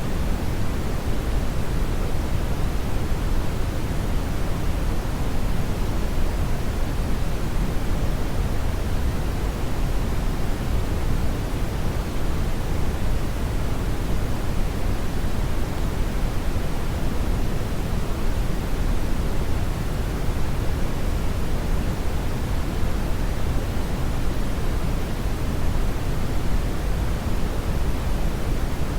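Steady brown noise: an even, deep rushing hiss, strongest in the bass and fading toward the treble, with no change throughout.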